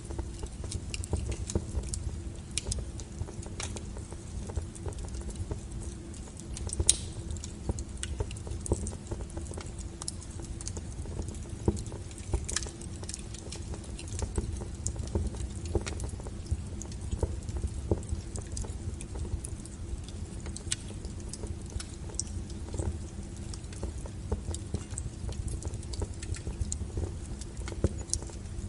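Wood fire burning: a steady low rumble under irregular crackles, with sharper pops about seven and twelve seconds in.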